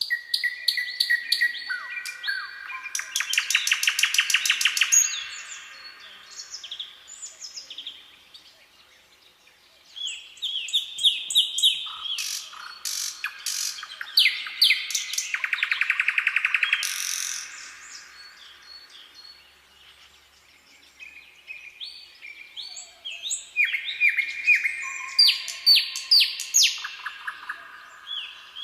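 Songbirds singing in three long bouts of rapid trills and chirps, with short quiet pauses between the bouts.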